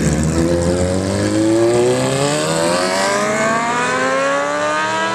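Car engine pulling hard under full acceleration. Its pitch climbs steadily and unbroken through one long gear.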